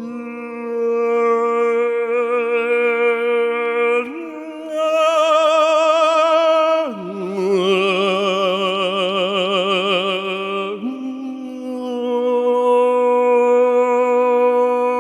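Sound-healing vocal music: long, held sung tones with vibrato over a steady drone, moving to a new note three times.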